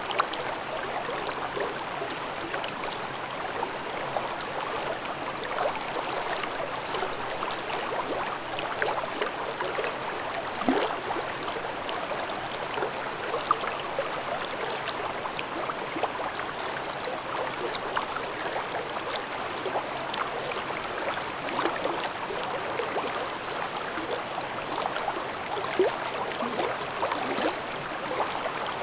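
Mountain stream babbling over rocks: a steady rush of water with small splashes and trickles throughout.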